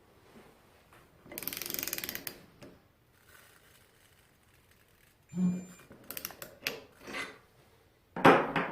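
Workshop tool-and-parts sounds: a burst of rapid mechanical clicking lasting about a second, then scattered knocks and clicks of metal parts, and a sharp clack near the end.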